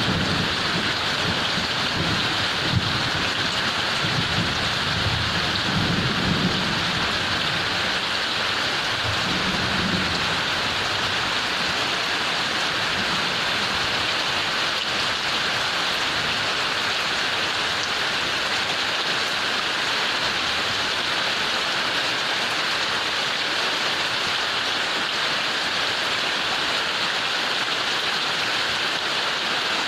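Heavy rain pouring steadily, with low thunder rumbling through the first ten seconds or so before fading out.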